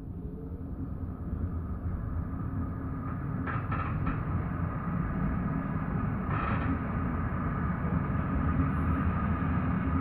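Tram running on its rails, getting steadily louder as it picks up speed, heard from inside the car, with short wheel-and-rail clatters a few seconds in and again halfway through.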